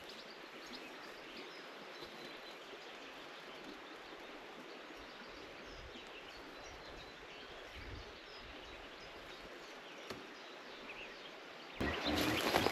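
Quiet forest ambience with faint, scattered birdsong chirps. Near the end a louder burst of rustling and handling noise starts.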